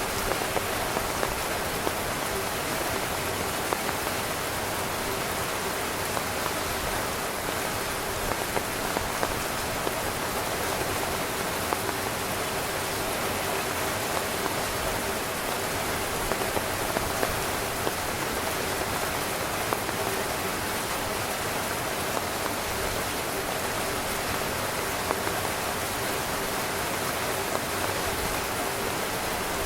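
Steady rain falling on a tent, a dense even patter with many scattered louder drops.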